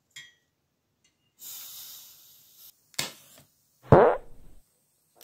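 Kolibri camping stove being lit: a high hiss, a sharp match-strike click, then the burner catches with a loud, fart-like burp that falls in pitch and sputters briefly.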